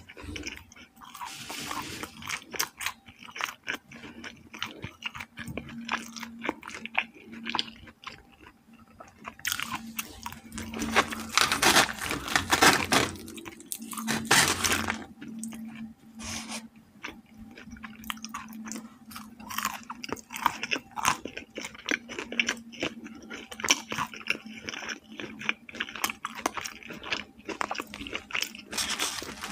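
Close-miked chewing and crunching of crispy fried chicken, a dense run of small crackles and clicks. Near the middle comes a louder stretch of crackling as the breaded chicken is pulled apart by hand.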